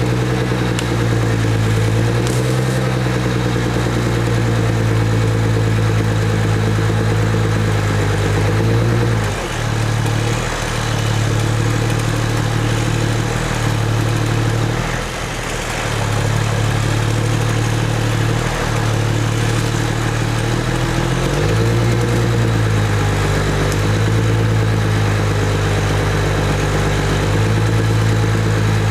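A heavy engine running steadily at a low, even pitch. It sags briefly in pitch and loudness about a third of the way in and again about halfway through, as if taking on load.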